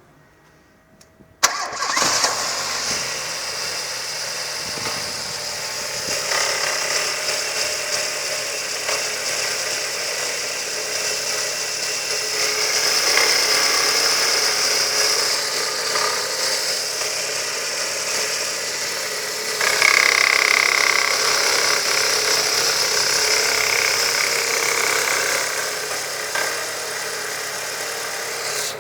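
Ford Zetec Rocam 1.6 8V petrol engine starting about a second and a half in, then running with a knocking noise that sounds as if it is inside the block. The owner found the cause to be a faulty belt pulley on the left side of the engine, not the engine internals.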